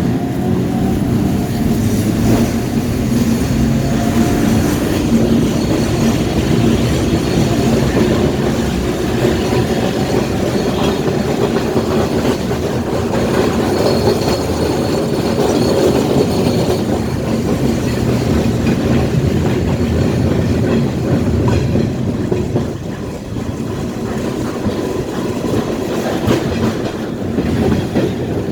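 Streetcar on the St. Charles line running along the track: a steady rumble and hum with wheels clicking over rail joints. The rumble eases somewhat about three quarters of the way through.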